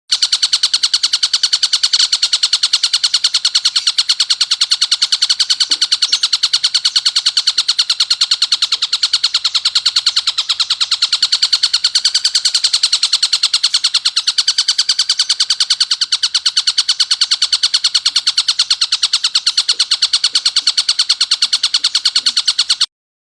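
Tengkek buto kingfisher calling in a fast, unbroken run of harsh, rasping notes, rattled out at an even rapid pace; the call stops suddenly near the end.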